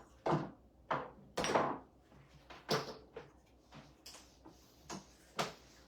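Kitchen clatter: about eight separate knocks and clunks as things are handled and set down. The loudest come in the first two seconds.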